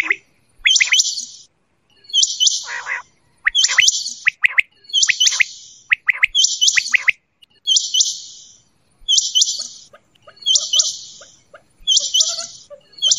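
Quail calling over and over: short, high, chirpy calls repeated about once a second, each a quick cluster of two or three notes.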